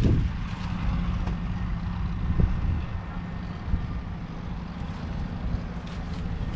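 A JCB Fastrac 4220 tractor's 6.6-litre six-cylinder diesel engine running steadily: a low rumble with a constant hum, loudest at the very start.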